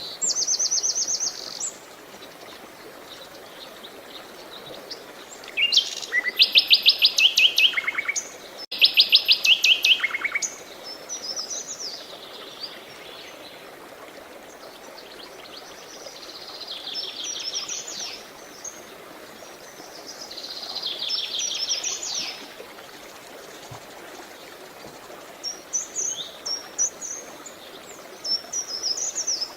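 Songbirds singing in a series of rapid trills, each phrase lasting one to three seconds, over a steady hiss of flowing water.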